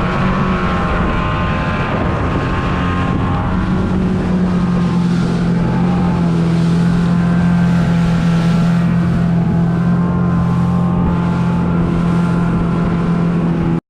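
Small boat's motor running steadily under way, a constant pitched drone, with wind buffeting the microphone.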